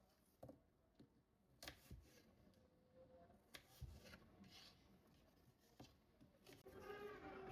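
Faint, scattered light clicks and taps with soft rubbing: small objects being handled. A short pitched sound with several tones comes in near the end.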